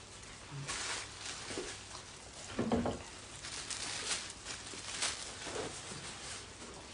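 Close-up eating sounds: scattered crisp clicks and wet smacks of chewing and handling food, with a brief low hum-like vocal sound just under three seconds in.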